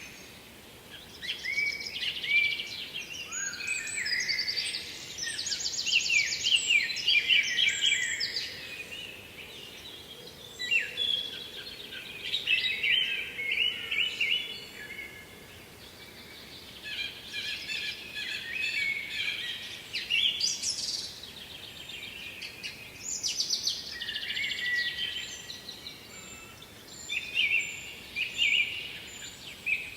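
Songbirds singing, several overlapping songs of chirps and rapid trills that come in phrases with short pauses between them.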